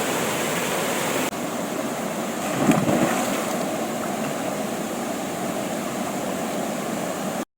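Waterfall rushing, a steady dense hiss of falling water, with a sudden shift in tone a little over a second in and a brief louder swell near three seconds in. It cuts off abruptly near the end.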